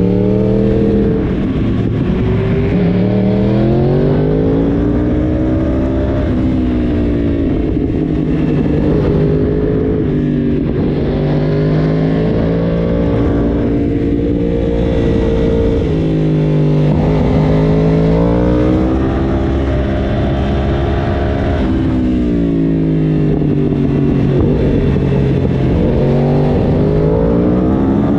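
Yamaha YZF-R1 crossplane inline-four sportbike engine heard onboard under way. Its note climbs and drops again and again as the bike accelerates and eases off along the road, with a few steadier stretches.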